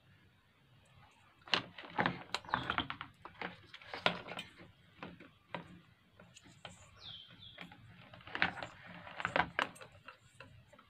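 A run of sharp clicks, taps and knocks, bunched in two spells, from small tools and parts being handled at a repair bench. A bird gives a short falling chirp in the middle.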